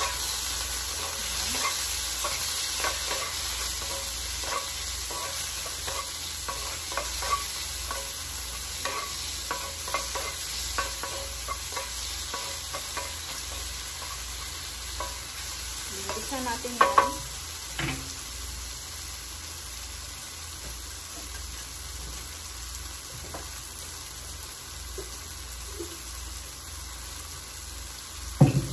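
Sliced mushrooms sizzling in butter and garlic in a cast-iron skillet, with a wooden spoon stirring and scraping against the pan in many small clicks. Two louder knocks stand out, one about halfway through and one near the end.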